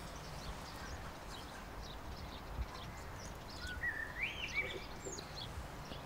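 Small garden birds chirping and singing, short high calls scattered throughout, with a clearer rising-and-falling whistled phrase about four seconds in, over low steady background noise.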